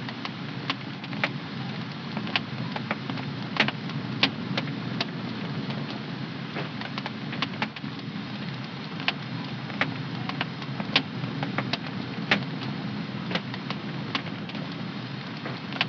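Wood fire burning in a home fireplace: a steady low rush of flame with irregular sharp crackles and pops, several a second.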